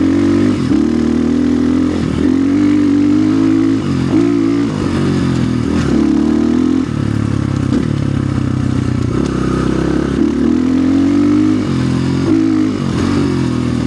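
A 2025 Orion RXB250XL dirt bike's 250 cc single-cylinder engine under way, its pitch rising and falling again and again as the throttle is opened and closed.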